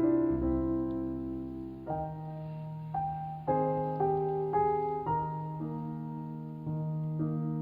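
Gentle background piano music: slow chords struck about once a second, each fading before the next.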